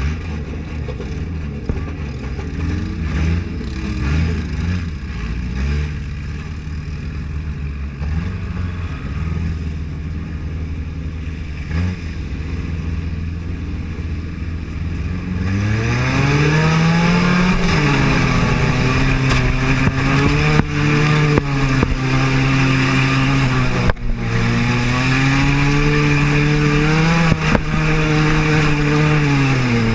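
Mini-car demolition derby car's engine heard from inside the car, running at lower revs for about fifteen seconds, then revving up hard and staying loud, its pitch rising and falling with the throttle. A few sharp knocks come through over the engine.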